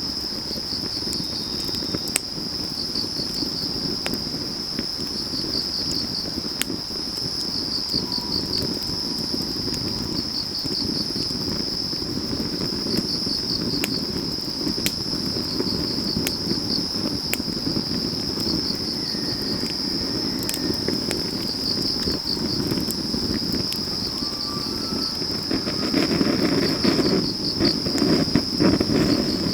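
Crickets chirring steadily, with bursts of pulsed trills every couple of seconds, over a wood fire crackling with scattered sharp pops. The fire grows louder near the end.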